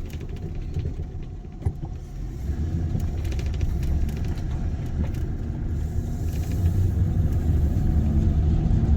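Car running, heard from inside the cabin: a low engine and road rumble that grows louder after about two seconds as the car picks up speed, with one sharp click just before.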